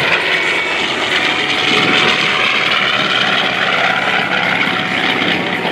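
F4U Corsair's Pratt & Whitney R-2800 radial engine running loud and steady as the fighter makes a low photo pass, swelling slightly about two seconds in.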